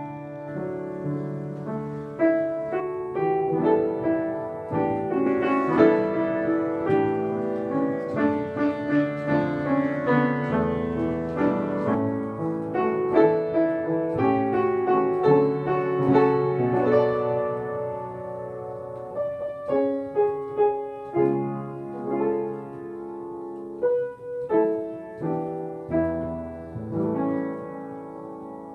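Solo piano playing a melody over changing chords.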